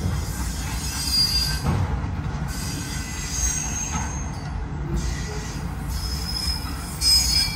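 Autorack freight cars rolling past close by: a steady low rumble of steel wheels on the rails, with thin high-pitched wheel squeals coming and going several times.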